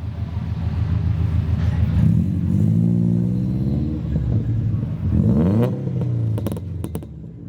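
Car engine running and being revved: the pitch climbs and settles, then a sharp rev rises and falls back about five seconds in, followed by a few sharp cracks near the end.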